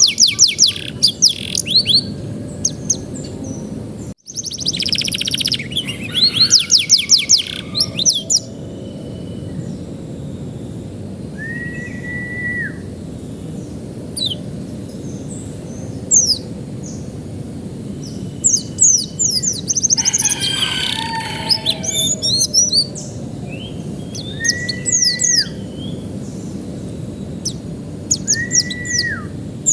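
Domestic canary singing: bursts of fast, high trills and chirps with pauses between phrases, plus a few single drawn-out whistled notes, over a steady background hiss. The sound cuts out for a split second about four seconds in.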